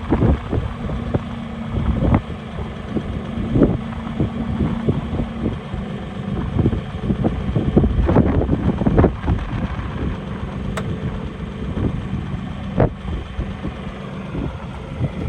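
New Holland T3.80F tractor's engine running at a steady idle, broken by irregular gusty bursts of noise.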